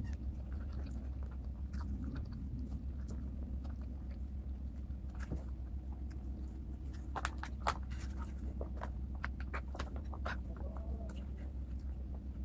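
A person chewing mouthfuls of rice with dendeng beef, with small wet mouth clicks and smacks. A denser run of louder clicks comes about seven to eight seconds in. A steady low hum runs underneath.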